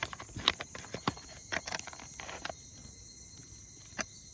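A quick run of light clicks and taps for about two and a half seconds, then one more tap near the end, over a steady high-pitched insect drone.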